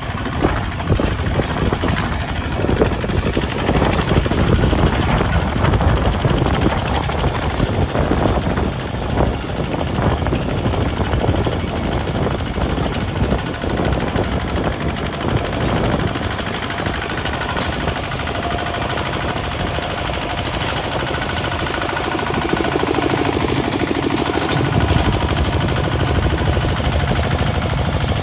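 Kubota RT single-cylinder diesel engine of a homemade plowing tractor running steadily with a fast, even pulsing beat. It grows a little louder and heavier about three-quarters of the way through.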